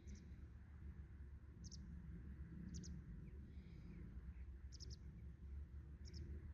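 Faint, short, high-pitched bird calls: about five quick chips, some doubled, spaced irregularly, over a low steady rumble.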